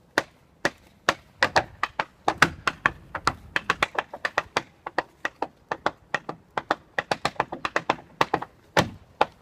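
Tap shoes' metal taps striking a hard floor in tap-dance steps: a fast, uneven run of sharp clicks, several a second, with short gaps between phrases.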